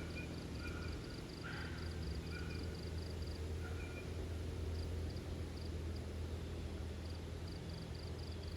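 Wind blowing through trees, with a steady low wind rumble on the microphone. Short bird chirps come in the first half, and a quick series of high, evenly spaced chirps sounds at the start and again near the end.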